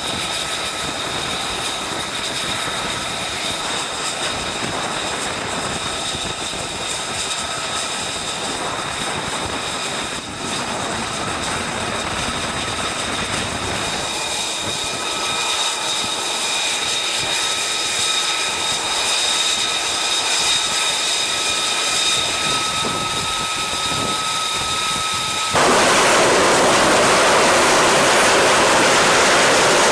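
F-35B jet engine running with a steady high whine over a rushing noise. About 25 seconds in it jumps suddenly to a much louder, even roar of jet exhaust.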